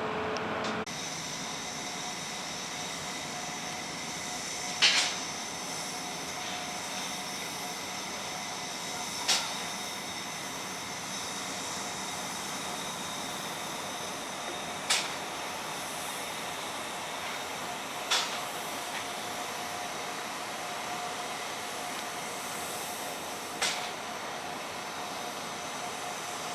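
Steady mechanical hum with a few faint steady tones, broken about every four to six seconds by a sharp click or knock.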